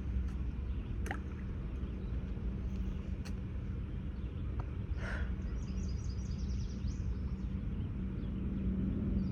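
Steady low machinery hum with a constant droning tone, with a few faint light clicks and a short run of high bird chirps about two-thirds of the way through.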